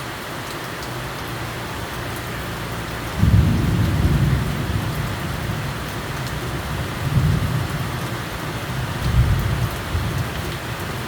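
Steady rain falling, with a low rumble of thunder breaking in about three seconds in and rolling on in two more swells.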